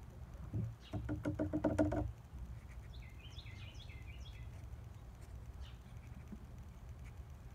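Birds calling outdoors: a lower pulsed call about a second in, then a quick run of high chirping notes around three to four seconds in, over a steady low rumble.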